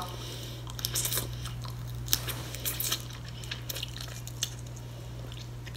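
Close-miked chewing of boiled blue crab meat, heard as scattered small wet mouth clicks over a steady low hum.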